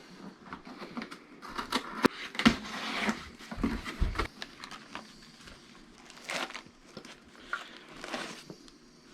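Product packaging being opened by hand: cardboard and plastic wrap crinkling and tearing in irregular rustles, with scattered sharp clicks and a couple of dull thumps.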